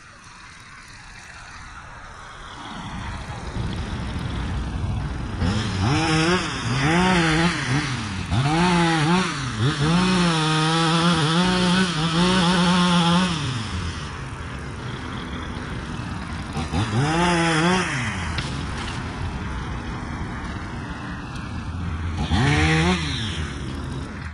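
Small Echo two-stroke saw engine idling, then revved up and down in repeated short bursts, with one longer run held at high speed for about three seconds about ten seconds in, and two more revs later on.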